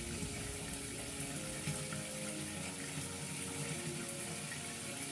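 Raw chicken pieces frying in hot oil in a lidded non-stick pan on a gas burner, giving a steady, even sizzle.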